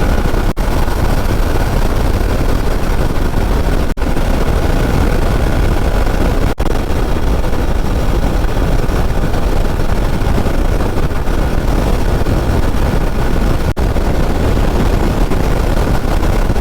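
Hero Xpulse motorcycle riding at speed: a steady, loud rush of wind and road noise over the engine, heaviest in the low rumble of wind on the microphone, with a few split-second dropouts.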